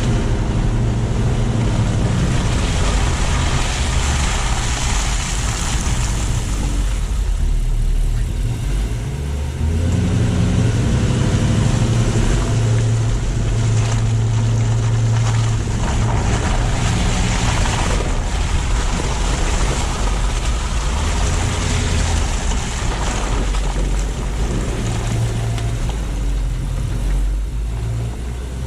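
Car driving, picked up by a low-mounted GoPro: an engine hum that rises and falls in pitch with the speed, under a steady hiss of tyres and wind.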